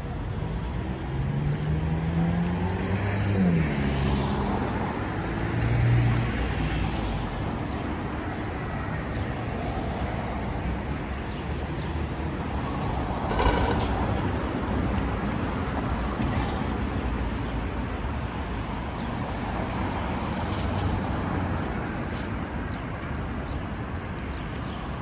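City street traffic: cars and other vehicles running past steadily, with engine sound rising in the first few seconds and a short sharp knock about halfway through.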